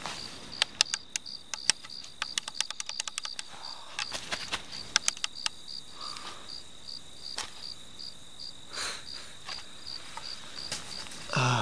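Crickets chirping steadily, about three chirps a second. Over them comes a run of sharp clicks, a few at first, then a quick flurry, then sparser ones: a flashlight switch clicked over and over without lighting, because it has no batteries. A short vocal sound near the end.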